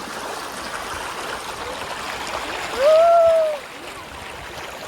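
Steady rushing of river water. About three seconds in, a single drawn-out call, less than a second long, rises and then falls in pitch and is louder than the water.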